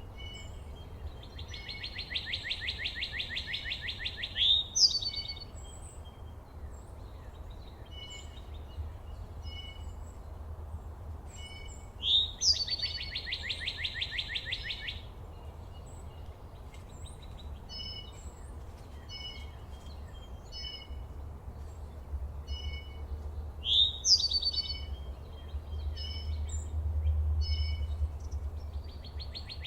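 Songbirds calling: a rapid, buzzy trill about three seconds long, paired with a sharp, high slurred note, comes three times about eleven seconds apart. Short chip notes are scattered between the songs, over a steady low rumble.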